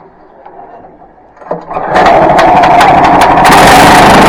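Faint knocks, then about two seconds in a small gasoline engine starts abruptly and runs loud and steady at high speed, powering the log mill.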